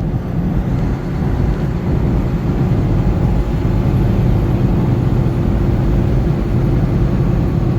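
Semi truck driving down the road: a steady low drone of engine and tyre noise, heard from inside the cab.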